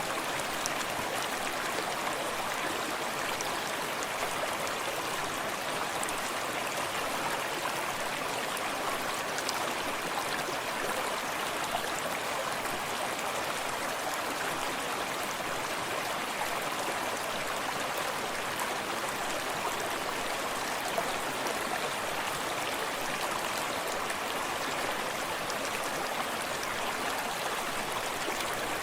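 A forest stream running steadily over rocks, with water lapping close by and the rush of a small cascade behind it; small splashes and drips stand out here and there.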